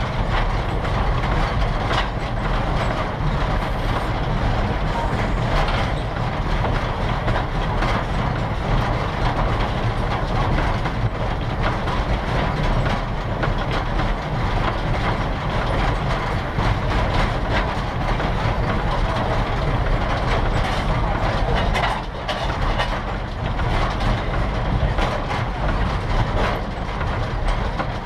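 Train running on the rails: a steady rumble with scattered clicks of the wheels over rail joints.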